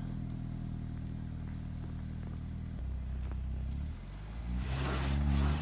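2017 BMW 430i's four-cylinder turbo engine running steadily, then revving up near the end with a hiss of the tyres spinning in the snow: the car is stuck and the wheels find no grip.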